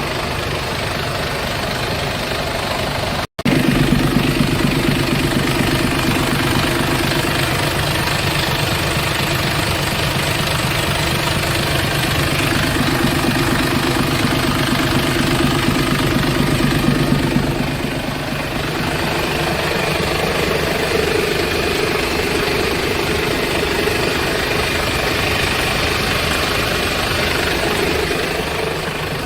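Mercedes-Benz Actros 1851's OM 471 inline-six diesel engine idling steadily. A brief cut to silence about three seconds in, after which the engine sounds louder.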